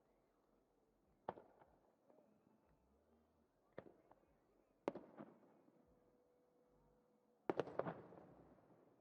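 Aerial fireworks bursting: single bangs about a second in, near four seconds and near five seconds, then a quick cluster of about four bangs near the end, each dying away in a short trailing echo.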